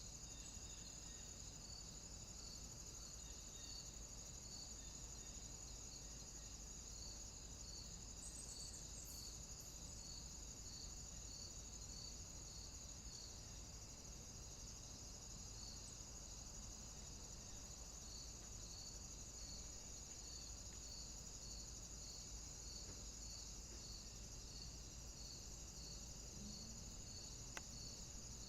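Crickets chirping: a faint, steady high insect trill with a regular chirp a little over once a second.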